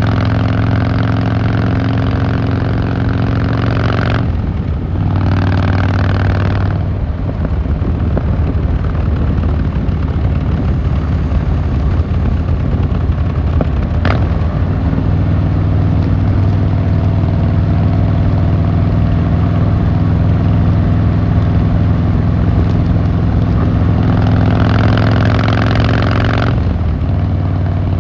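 Harley-Davidson Fat Boy Lo V-twin engine and exhaust running under way. The throttle eases off about four seconds in, the engine note steps up about halfway and then holds steady, and it opens up again for a couple of seconds near the end. A single sharp click sounds about halfway through.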